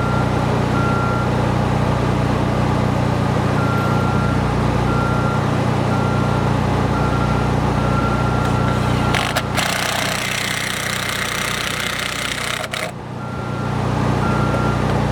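Diesel engine of construction equipment running steadily while a backup alarm beeps about twice a second. The beeping stops about nine seconds in, when a rushing hiss takes over for a few seconds, then resumes near the end.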